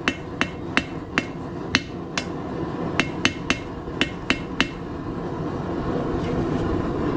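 Hand hammer striking hot 1/4-inch square steel on an anvil, about a dozen ringing blows in quick groups, drawing out a tapered point. The blows stop a little before five seconds in, leaving a steady rushing noise that grows louder near the end.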